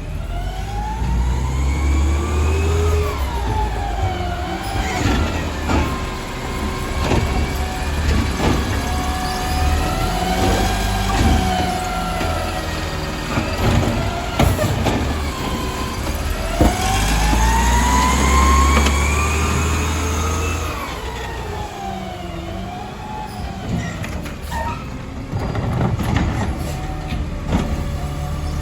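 Garbage truck engine revving up and settling back several times, its whine rising and falling in pitch over a few seconds each time with a deep rumble at the peaks, as the truck works its hydraulics. Scattered sharp clanks are heard throughout.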